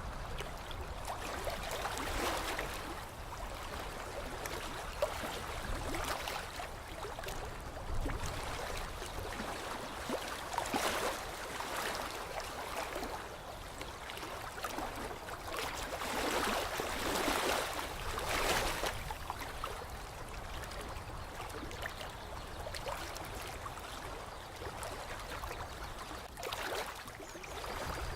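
Gentle water lapping and trickling at a lake's edge, swelling and easing every few seconds.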